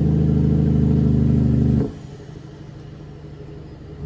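Loud, steady, low-pitched sound from the Kenworth dump truck, held at one pitch and cutting off suddenly about two seconds in. After it stops, the truck's engine idles quietly.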